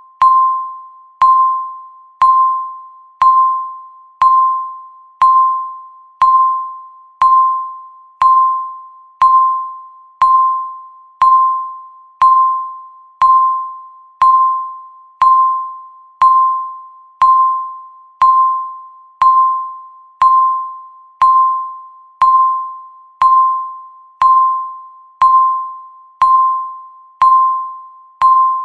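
Countdown timer's electronic beep sounding once every second: a single bell-like tone that starts sharply and fades away before the next one, repeating evenly.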